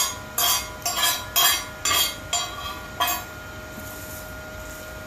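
Metal being struck or knocked together: a run of sharp ringing clinks, about two a second, that stops about three seconds in.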